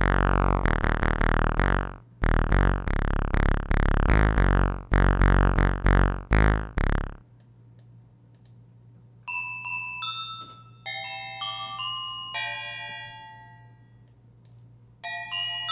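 Sampled synthesizer presets from the Dimension Kontakt library played on a keyboard. First a thick, buzzy synth plays repeated chord stabs for about seven seconds and stops. Then a bright, bell-like synth plays a melody of single notes, pausing briefly near the end.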